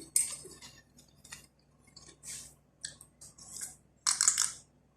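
Crunchy dried flatbread (kubus) being bitten and chewed: a few short, crisp crunches spread through the stretch, the longest one near the end.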